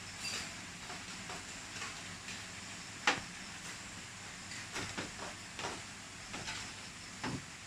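Outdoor nature ambience: a steady hiss with a few faint, thin high tones, broken by irregular sharp ticks and taps, the loudest about three seconds in.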